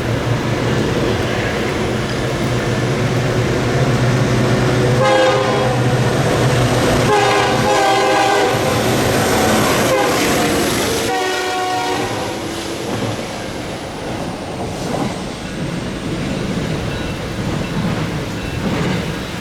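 NJ Transit MP20B-3 diesel locomotive leading a freight train past, its air horn sounding a series of blasts: one at the start, a short one about five seconds in, a longer one a couple of seconds later and another around twelve seconds in. Under the horn are the locomotive's engine drone and the train's rolling clatter on the rails.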